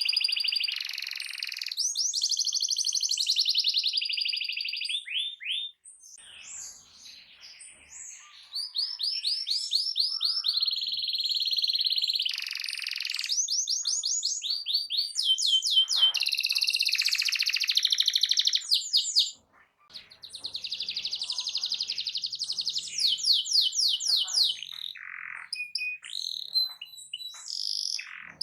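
Domestic canary singing a loud, long song of fast trills and rapidly repeated high notes, broken by two short pauses, about six and twenty seconds in.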